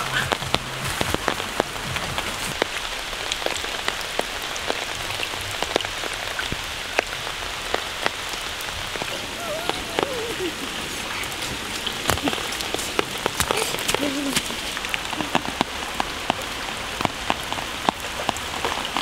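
Steady rain falling on water, mud and foliage, with the sharp patter of individual drops throughout. A couple of short pitched calls rise and fall about ten and fourteen seconds in.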